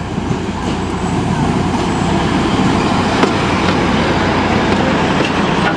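Narrow-gauge diesel locomotive and its coaches rolling slowly past at close range, the engine running with a steady low rumble and a few sharp clicks from the train along the way.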